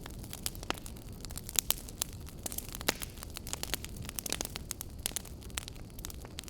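Wood fire burning in a fireplace: many sharp, irregular crackles and pops over a steady low rumble of the flames, with a few louder snaps.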